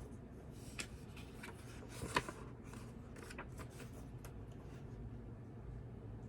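Desk study sounds: a run of short paper rustles and pen-like scratches over a low steady background hum, with one sharper stroke a little after two seconds.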